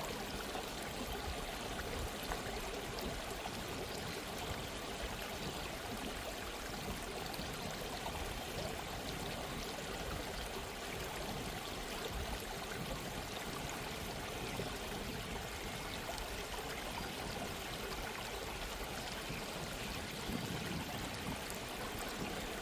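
A gently running stream, water trickling and burbling over stones with a steady, even flow.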